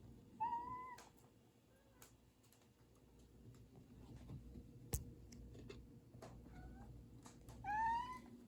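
A domestic cat meows twice, once near the start and once near the end, each a single rising call. Between the meows there are soft scattered clicks, one sharp tap about halfway, and a couple of faint short chirps.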